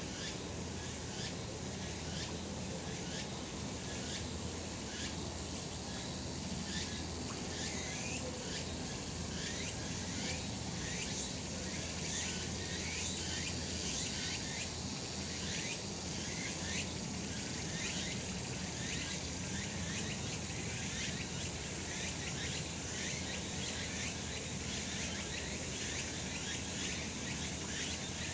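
Cicadas singing in a steady, unbroken chorus, with short chirps repeating quickly over the top.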